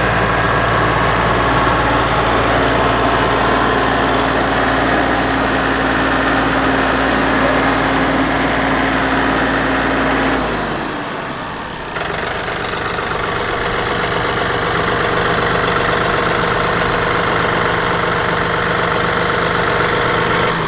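John Deere 3046R compact tractor's three-cylinder diesel engine running steadily. About halfway through, its sound changes abruptly and briefly drops in level, then it settles into a steady run again.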